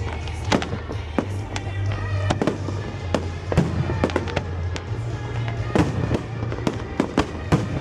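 Fireworks bursting in quick, irregular succession, many sharp bangs a second, over show music with a steady bass line.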